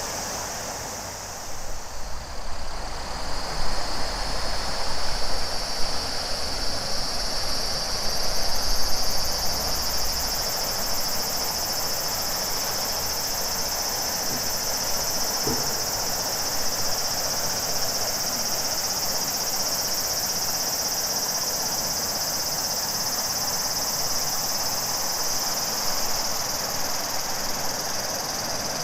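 Cicadas singing in a steady, shrill chorus over the rushing flow of a large river. For the first ten seconds or so a low, uneven rumble rides under it.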